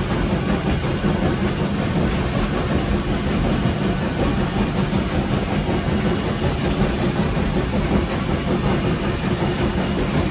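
Steady running noise heard from inside the cab of Nevada Northern steam locomotive No. 81: a constant low rumble with hiss, and no separate beats standing out.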